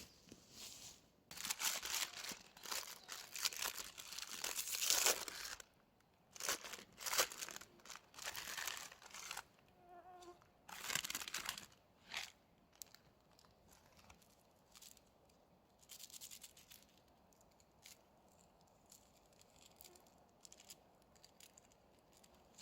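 Bags and wrappings being handled, rustling and crinkling in bursts for about ten seconds, then only a few faint clicks.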